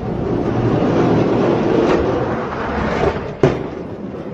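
Two die-cast toy monster trucks rolling down a race track in a steady rumble, with one sharp knock about three and a half seconds in.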